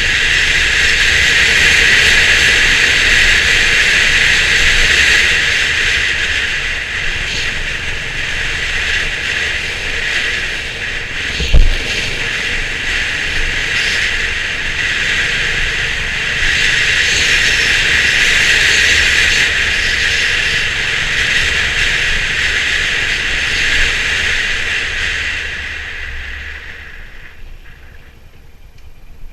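Motorcycle riding noise on a Honda CB350 RS: a steady loud hiss of wind and road noise over a low engine rumble, with one sharp thump about twelve seconds in. The noise fades away near the end as the bike slows.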